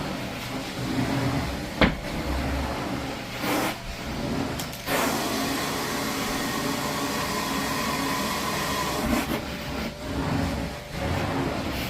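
A carpet extraction machine's vacuum running steadily, with a sharp click about two seconds in. Through the middle it holds a steadier, higher whine for about four seconds.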